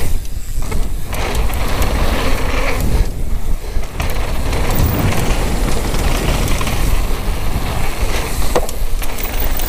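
Downhill mountain bike riding fast over a rough trail: a steady loud rumble of tyres on dirt, with many small knocks and rattles from the bike.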